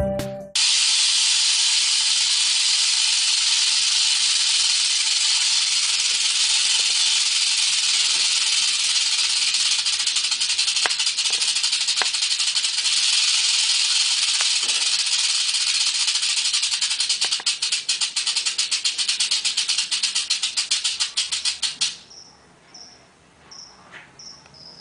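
Rattlesnake rattling its tail: a steady, dry, high buzz that breaks into separate rapid clicks as it slows, then stops near the end. Faint, evenly repeated high chirps follow.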